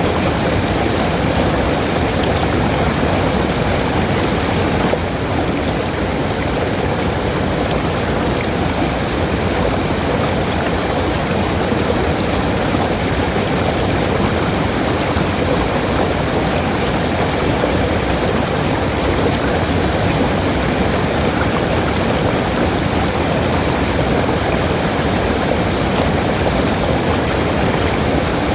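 Waterfall: the steady rushing of falling water, with a slight drop in level about five seconds in.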